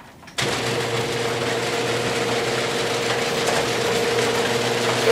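Electric garage door opener running as the door closes: a steady motor hum with a rattling drive that starts abruptly about half a second in.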